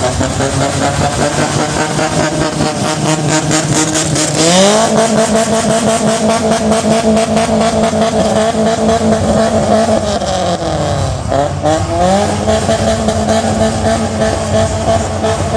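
Toyota Corolla AE101 engine through a Greatco aftermarket exhaust, revved and held at high rpm twice: the note climbs sharply about four seconds in and holds, drops back around ten seconds, then climbs and holds again.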